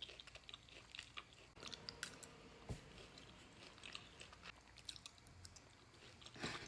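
Faint close-miked chewing of a bite of eye of round steak: soft, irregular wet mouth clicks and smacks.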